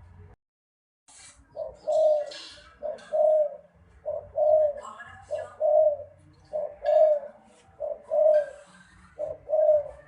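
Spotted dove cooing: a repeated low two-part coo, a short note followed by a longer one, about seven times at an even pace.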